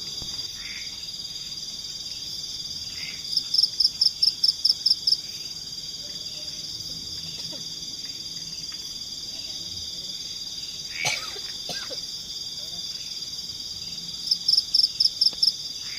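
Night-time tropical forest insect chorus, a steady high-pitched trill, with a louder call of about eight quick even pulses heard twice, a few seconds in and near the end. A single brief knock about eleven seconds in.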